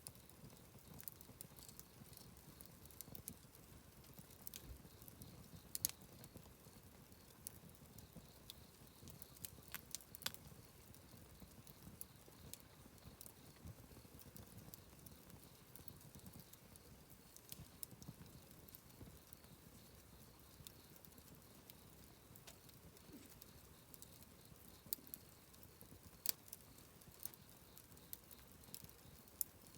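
Campfire crackling quietly, with irregular sharp pops and ticks from the burning wood and a few louder pops about six, ten and twenty-six seconds in, over a faint low rumble.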